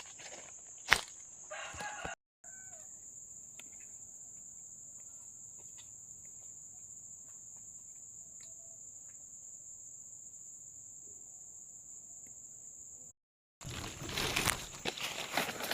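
Village yard ambience: a steady high insect drone with a few short chicken clucks. A louder stretch of rustling, shuffling noise comes after a cut near the end.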